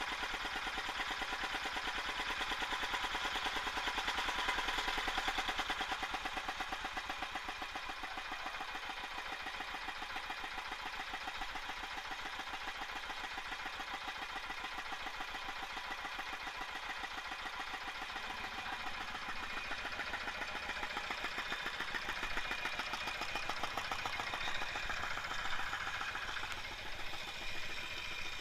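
Diesel tractor engine running steadily with an even, rapid knocking beat, a little louder in the first few seconds. It runs smoothly after a repair for heavy smoke (new piston rings and valve seals, injector nozzle reset to spray a fine mist).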